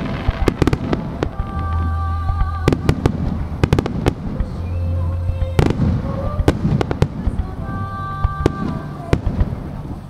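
Aerial firework shells bursting in quick succession, a string of sharp bangs with crackling, over music with held notes.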